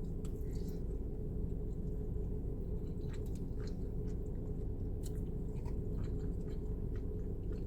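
Someone chewing a mouthful of spaghetti, with scattered small wet mouth clicks, over a steady low rumble.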